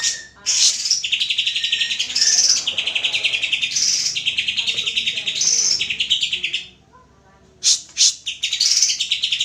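Green leafbird (cucak hijau) song: a run of fast, buzzy trilled phrases about a second each, mixed with higher whistled notes. It breaks off briefly about seven seconds in, then resumes with sharp calls.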